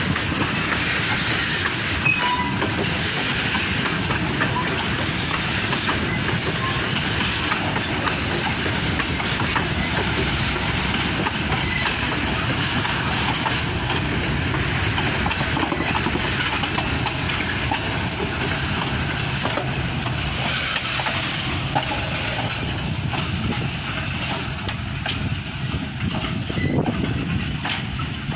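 Loaded ore wagons of a freight train rolling past, steel wheels clattering steadily on the rails. The sound eases a little near the end.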